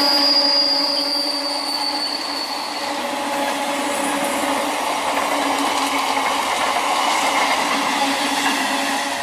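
Electric multiple unit (EMU) local train running past close by. A high wheel squeal fades over the first few seconds over a steady hum, then the wheels rattle and clatter over the rails.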